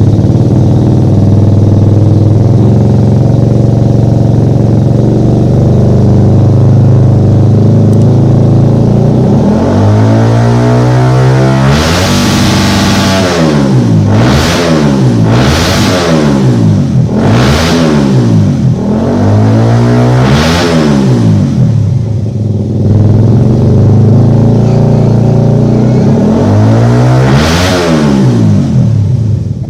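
Suzuki Satria FU's single-cylinder four-stroke engine through a VR7 aftermarket racing exhaust, loud and idling steadily, then revved up in one long rise and blipped in a quick series of rising and falling revs. It settles back to idle and gives one more rev near the end.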